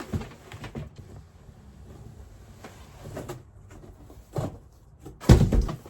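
Cardboard box being opened and handled: scattered scrapes and light knocks, then a heavier thump about five seconds in.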